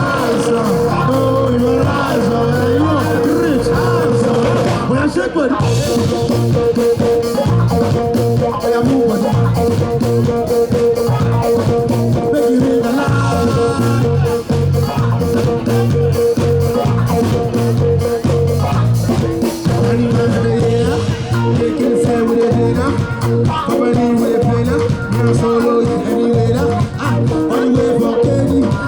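Live band music played loud over a stage PA, with a steady driving beat and strong bass.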